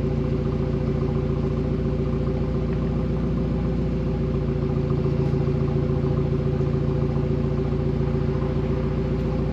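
Car engine running at a steady speed, an even, unchanging drone that shifts slightly about halfway through.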